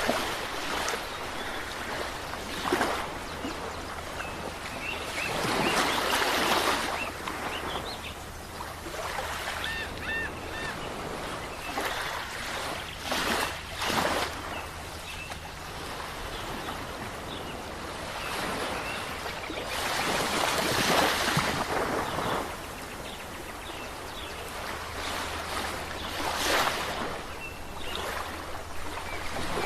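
Ocean waves breaking and washing up a shore, a steady hiss of surf that swells into louder surges every few seconds at irregular intervals.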